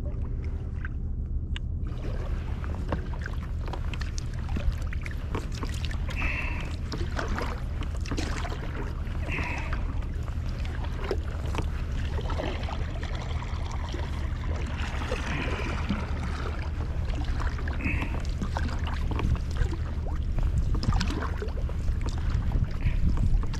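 Water splashing and lapping against a sea kayak's hull while under sail, with many short irregular splashes over a steady low rumble.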